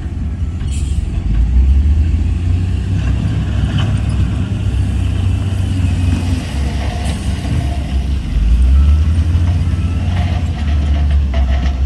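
Heavy diesel engine of earthmoving machinery running, a loud deep rumble that swells about a second and a half in and again about eight seconds in.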